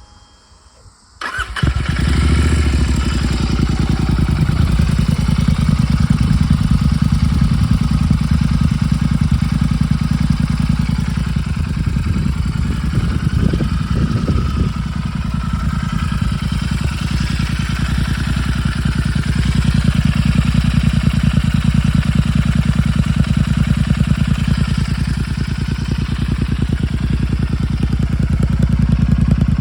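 Royal Enfield Continental GT650's 648 cc parallel-twin engine starting about a second in, then idling steadily through an S&S exhaust with the baffles removed.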